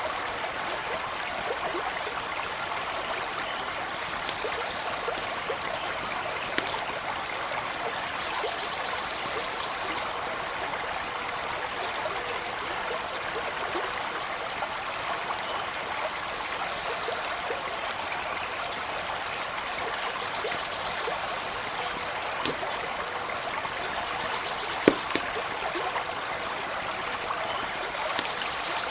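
A stream running with a steady, even rushing and babbling, with scattered small crackles and a few sharp pops from a campfire.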